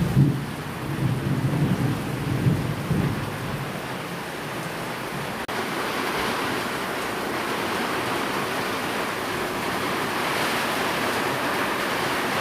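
Rain falling steadily with thunder rumbling underneath for the first few seconds. About five and a half seconds in there is a momentary dropout, after which only the steady, brighter hiss of rain goes on.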